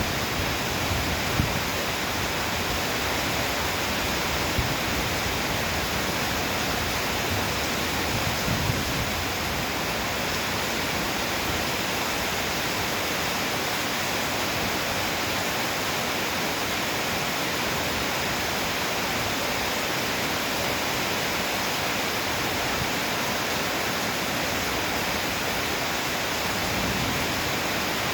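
Heavy downpour, a steady, even hiss of rain, with a few brief louder taps in the first nine seconds.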